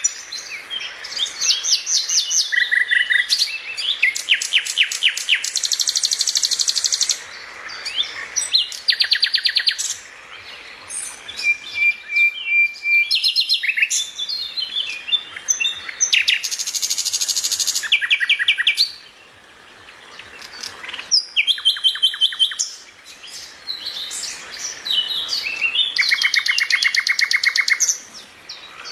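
Several small birds chirping and singing, with fast trills of rapidly repeated high notes, one after another with short pauses between.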